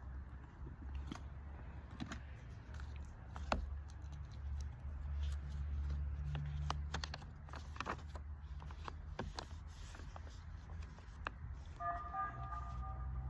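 Outdoor ambience: a steady low rumble with many small clicks and taps scattered through it, and a brief high tonal chirp about twelve seconds in.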